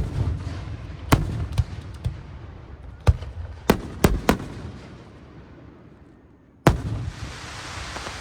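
Aerial fireworks shells bursting: a string of about eight sharp booms with low rumbling echoes, several in quick succession in the middle. The last bang, near the end, is followed by a steady hiss.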